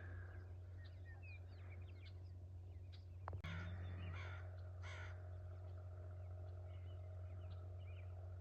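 Birds calling outdoors: a short run of about four harsh calls roughly three and a half to five seconds in, with faint small-bird chirps scattered throughout. A steady low hum runs underneath.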